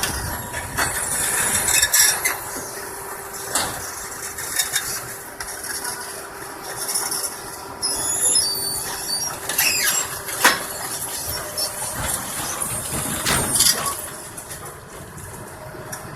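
A heavy truck engine runs steadily under high-pitched metal squeals and scraping, with several sharp knocks. These are the sounds of an overturned dump truck being pulled and righted.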